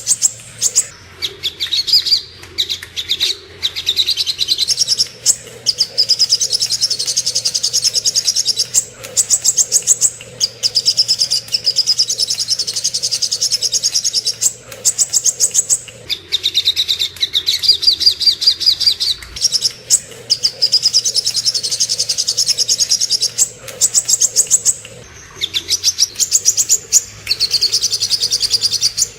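Sogok ontong (little spiderhunter) singing in a songbird tutor recording: long runs of rapid, high chattering notes lasting several seconds each, separated by brief pauses.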